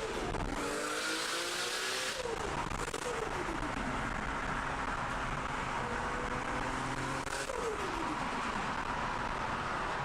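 Nissan Skyline GT-R R34 engine being driven hard: the revs climb and then drop sharply several times, over a steady rushing noise.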